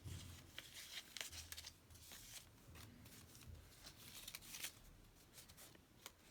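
Faint rustling and light clicks of paper pieces being handled and sorted.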